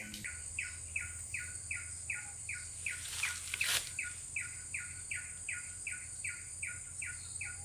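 A bird calling a steady, repetitive series of short descending notes, about three a second, over a continuous high-pitched insect hiss, with a brief scuffing noise about halfway through.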